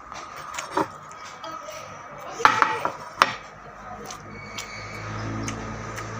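Utensils clinking and knocking against a plate during a meal, in scattered sharp clicks with a few louder knocks around the middle. A low hum builds up over the last second or two.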